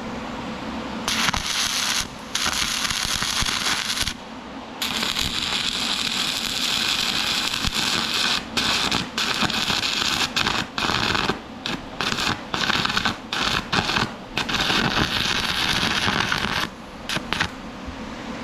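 MIG welder arc crackling and sizzling on steel, struck in a series of runs: a few longer beads, then many short stitch welds with brief stops between them from about eight seconds in.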